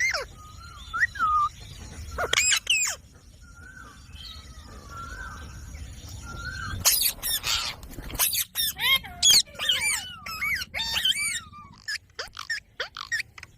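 Pet Indian ringneck parrot calling: a few short whistled notes and two loud calls early on, then from about seven seconds in a quick run of short rising-and-falling calls.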